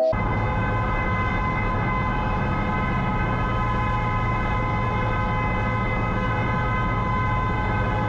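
Steady vehicle noise, most likely a car driving at an even speed: a low engine and road drone under a hiss, with a steady high whine held at one pitch.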